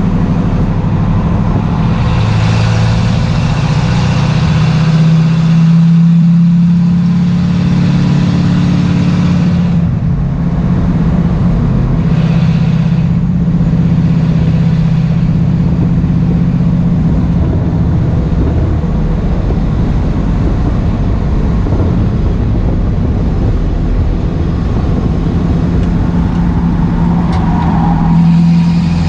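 Race car engine running hard at speed, heard from inside the stripped, roll-caged cockpit, its pitch rising and falling with the throttle, over wind and road noise.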